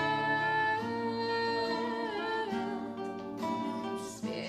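A singer holding a long sung note on the word «горят» over a plucked acoustic guitar accompaniment.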